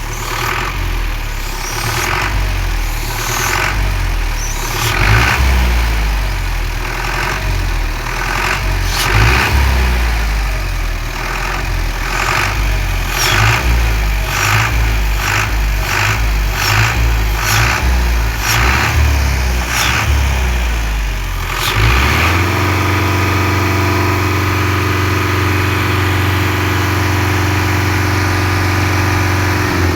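Fiat 640 tractor's diesel engine running, with an uneven pulsing beat that quickens for about the first twenty seconds, then changing abruptly about 22 seconds in to a steady, even note.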